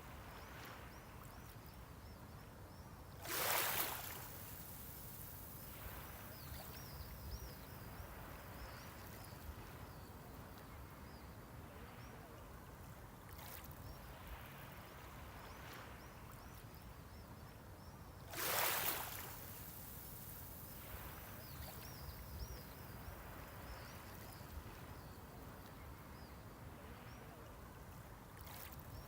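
Small sea waves breaking on the shore twice, about fifteen seconds apart, each a brief hissing wash over a steady low surf rumble.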